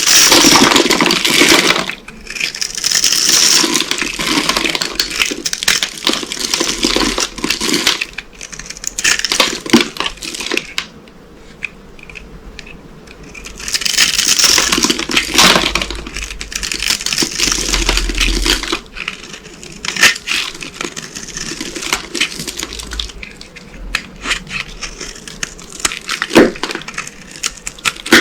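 Dry soap boxes coated in corn starch being crushed, a dense crunchy crackling that comes in waves. It is loudest at the start and again about halfway through, with a quieter stretch between.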